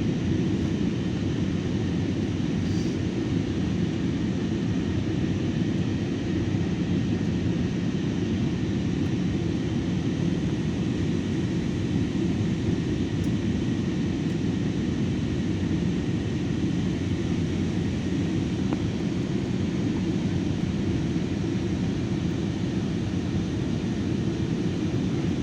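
Steady engine and airflow noise inside a passenger airliner's cabin: a low, even rumble that does not change in level.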